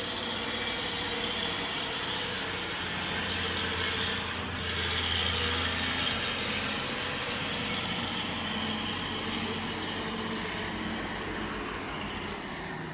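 A heavy engine running steadily, a low even hum with no clear revving or impacts.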